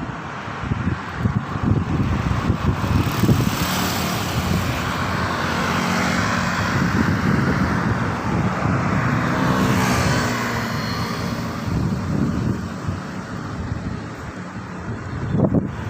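A vehicle passing, a wide rushing noise that swells through the middle and fades again, over low wind buffeting on the microphone.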